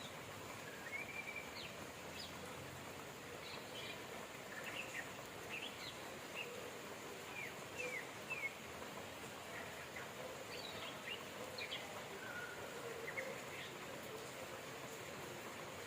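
Steady rain with songbirds chirping over it: many short high calls scattered throughout.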